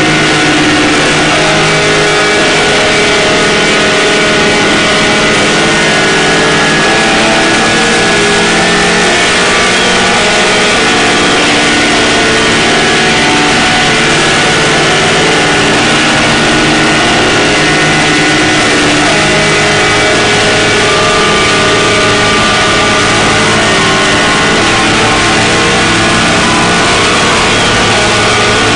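Harsh noise drone music: a loud, dense, unchanging wall of distorted noise with many held tones layered through it.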